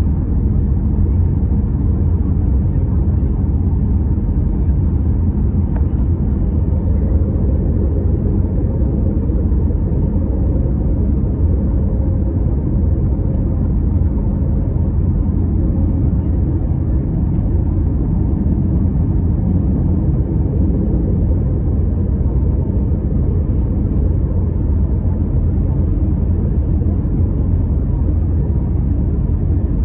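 Steady low rumble of engine and airflow noise inside the cabin of an Airbus A321-251NX with CFM LEAP-1A engines, holding an even level throughout.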